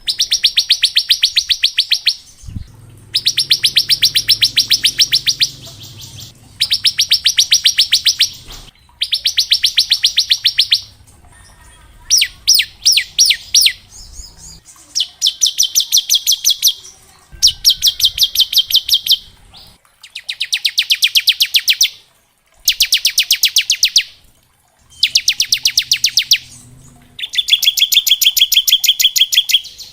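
Ciblek (a prinia) singing its rapid rattling 'ngebren' trill in repeated bursts of about two seconds, each a fast run of evenly spaced high notes, with short pauses between.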